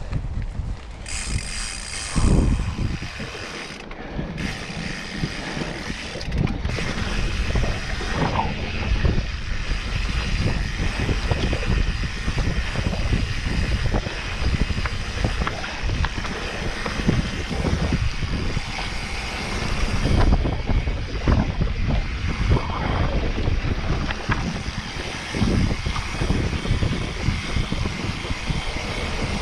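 Mountain bike clattering down a rough trail: rapid chain slap and frame rattle over roots and rocks, with the freehub ratchet clicking while coasting.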